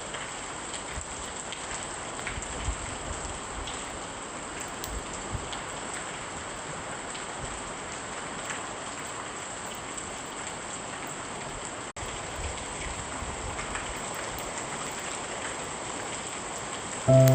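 Steady rain falling, an even hiss with the patter of individual drops. The sound drops out for an instant about twelve seconds in. Music with held notes comes in right at the end.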